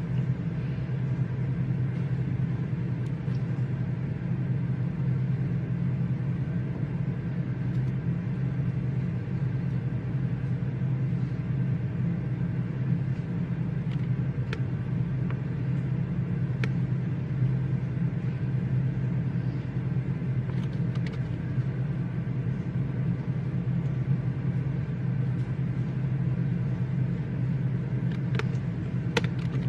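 Steady low hum of a library reading room's background noise, with a few faint clicks scattered through it.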